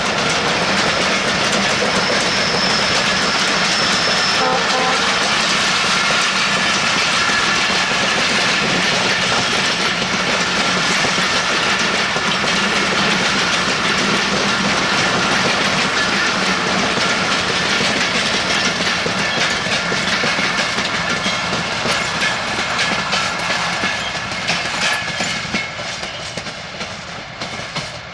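Passenger coaches of the Sagordari Express intercity train passing close by at speed, with a steady rush and rumble and the rapid clickety-clack of wheels over rail joints. The sound fades away over the last few seconds as the end of the train moves off.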